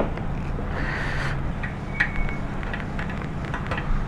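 Refuelling at a petrol pump: a steady hum with a few clicks, and a short beep about two seconds in.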